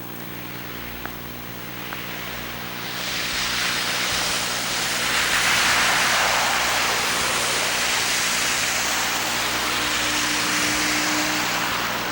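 A car passing on a snowy street, its tyres hissing, swelling about three seconds in and fading near the end. Under it runs the Hi8 Sony Handycam's steady electrical buzz.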